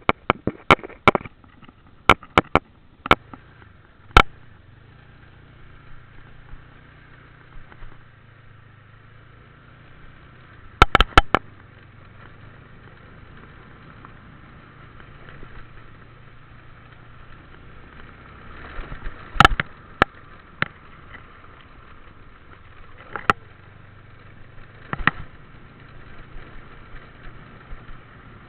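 Motorbike running steadily on the move, with repeated sharp knocks and clicks in clusters, several at the start, a few around ten seconds in, and more past the middle.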